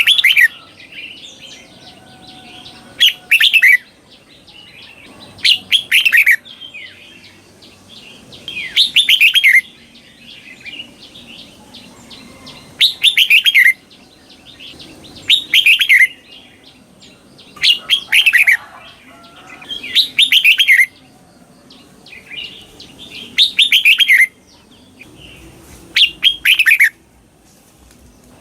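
Red-whiskered bulbul singing its doubled song phrases, about ten in all, one every two to three seconds. Each phrase is a quick run of notes falling in pitch.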